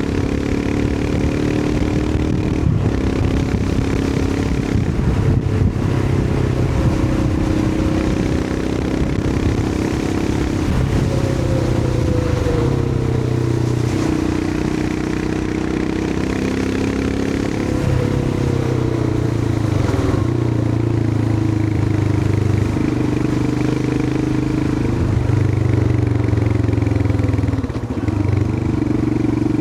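Royal Enfield Himalayan 411's single-cylinder engine running under way, heard from the rider's position. The engine note rises and falls several times as throttle and gear change, with a short drop in level near the end.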